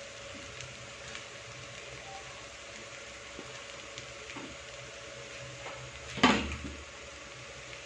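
Low, steady sizzle of stir-fried noodles in a nonstick pan on the heat, with a faint steady hum underneath. A single sharp knock sounds about six seconds in.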